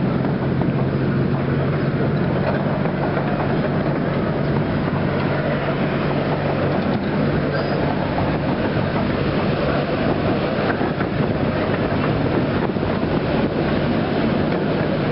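Miniature park railway train running, heard from a passenger carriage: a steady rumble with a low hum and faint scattered clicks of the wheels on the track.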